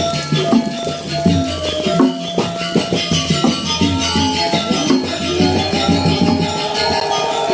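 Balinese gamelan playing in a fast, steady rhythm: struck metal keys and gongs ringing under rapid cymbal clashes.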